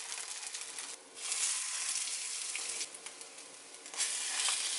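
Tuna-and-potato patties sizzling as they fry in hot oil in a nonstick frying pan. The sizzle steps abruptly louder and softer a few times.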